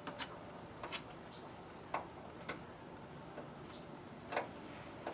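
Scattered sharp clicks and taps of small hand tools and hardware being handled while fitting sun-visor parts, about seven over five seconds at uneven gaps.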